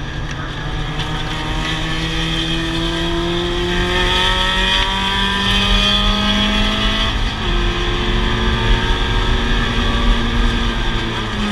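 Mazda Miata race car's four-cylinder engine pulling hard under acceleration, heard from inside the cabin, its pitch climbing slowly and steadily. About seven seconds in the pitch falls and then starts climbing again.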